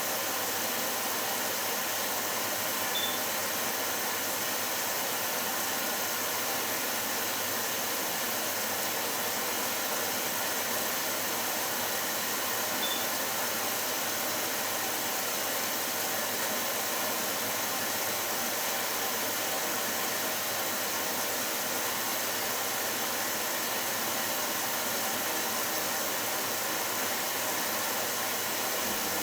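Philco Bendix W84RX washing machine running its hot coloured-wash programme, a steady even rushing noise with no rhythm to it.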